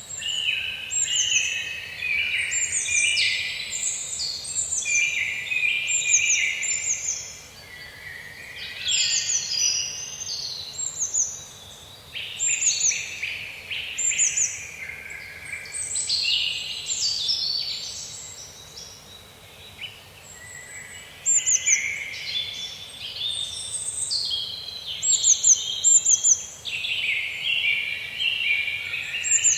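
Several songbirds singing and calling together in a forest: quick high falling chirps repeated over and over, overlapping lower warbling phrases, with a faint steady hiss beneath.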